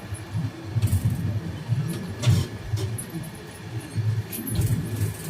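Train running on the track: a steady low rumble with an uneven beat and a few sharp metallic knocks and clanks, with a faint high rattle over it.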